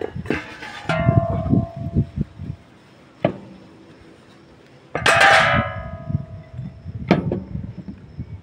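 Metal clanking, as tools or brake parts are handled and struck during a disc brake pad job. Two strikes ring out like a bell, one about a second in and the loudest about five seconds in, with short sharp knocks between them.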